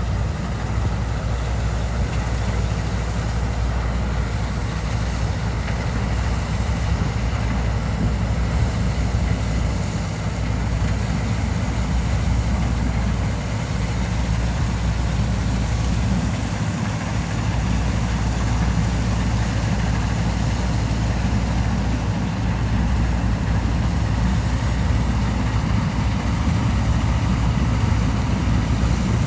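Heavy diesel farm machinery running steadily, a low engine drone with a continuous mechanical rush over it.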